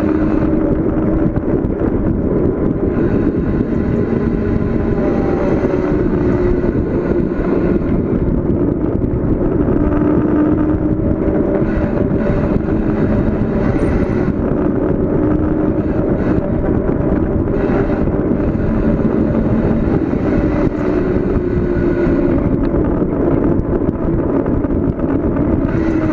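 Bicycle coasting downhill at speed: a steady rush of wind and road noise with a faint hum that wavers slightly in pitch.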